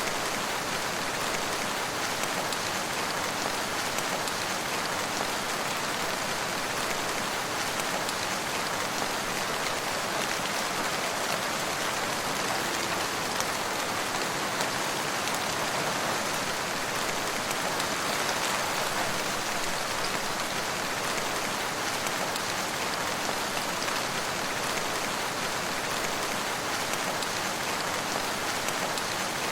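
Steady rain falling, an even pattering hiss with no thunder or breaks.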